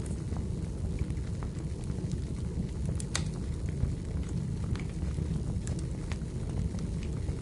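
Wood fire burning in a fireplace: a steady low rumble of flames with scattered crackles and pops from the burning firewood, one sharper pop about three seconds in.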